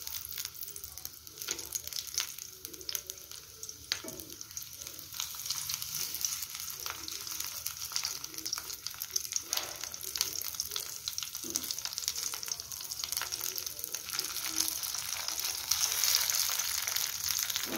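Stuffed bottle gourd leaf parcels shallow-frying in oil in a nonstick kadai over a low flame, sizzling and crackling, with scrapes and taps of a slotted spatula as the parcels are turned. The sizzle grows louder in the last few seconds.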